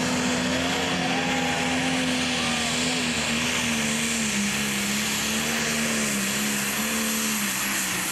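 Pro stock pulling tractor's diesel engine running hard at full throttle down the track, a steady high-revving note that wavers and then sags gradually in pitch over the second half as the engine is pulled down under the sled's load.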